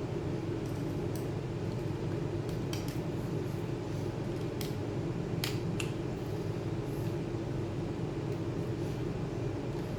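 A few light, sharp clicks and taps, scattered irregularly over a steady low hum.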